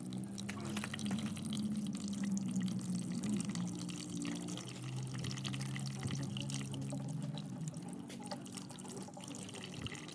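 Running water splashing and dripping, many small splashes over a low steady hum.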